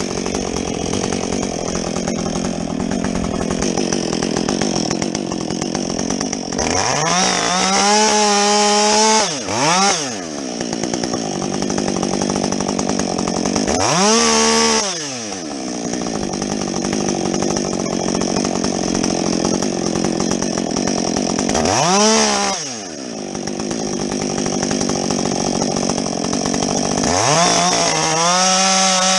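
Husqvarna 562XP two-stroke chainsaw with a modified muffler cutting through a log, the engine held down under load in the wood. Three times it revs up sharply to full speed as the chain clears the cut, then drops back as it goes back in; near the end it revs up again and holds at high revs.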